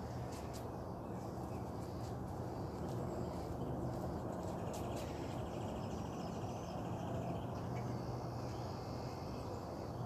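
Outdoor birds chirping, with a rapid trill a few seconds in, over a steady low hum.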